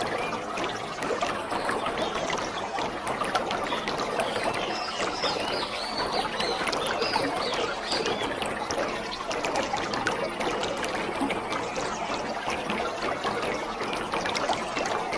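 Waterfall: a steady rush of falling water, full of small splashes.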